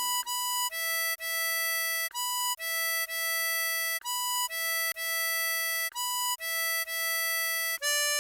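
Tremolo harmonica playing a slow melody of single held notes, mostly alternating between a higher and a lower pitch, each note lasting about half a second to a second and a half with a short break between notes.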